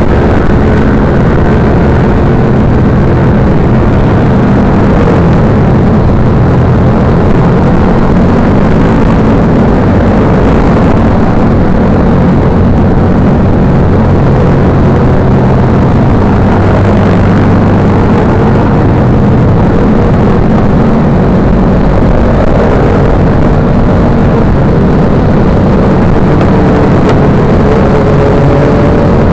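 Motorcycle engine running loud and steady, its pitch drifting up and down with the throttle.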